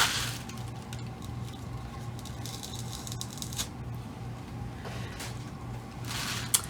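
Light rustling of wrapping material and small scattered clicks as doll armor pieces are unpacked and handled, with a louder crinkle right at the start and another rustle and sharp click near the end. A steady low hum runs underneath.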